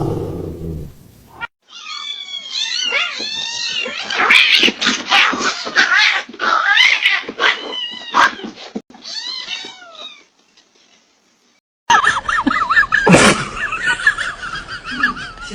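Cats caterwauling: a run of repeated, arching yowls for several seconds that stops abruptly. After a short silence a different sound follows, a wavering high-pitched sound with one sharp click.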